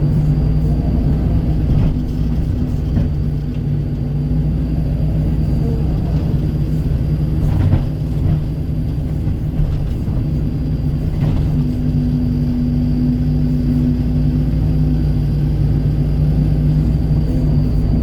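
Kobelco SK135 excavator's diesel engine running steadily under working load, with a stronger drone for a few seconds past the middle and a few light knocks from the machine at work.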